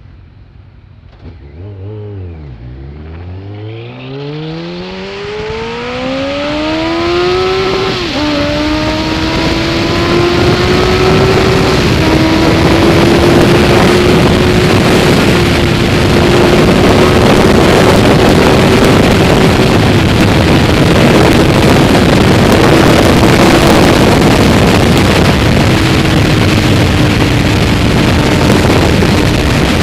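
Kawasaki ZZR1200's inline-four engine pulling away from low revs and accelerating hard, its pitch climbing steeply to a gear change about eight seconds in. After that the engine holds a nearly steady high note through further small shifts while a rush of wind noise builds and grows loud.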